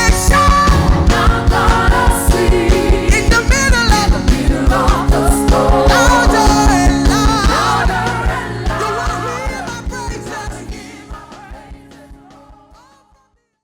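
Worship band and singers playing an upbeat praise song over a fast, steady drum beat. The music fades out over the last few seconds.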